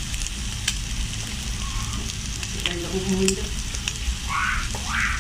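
Egg omelette with onions and bread frying in a nonstick pan over a high gas flame: a steady sizzle with scattered sharp pops.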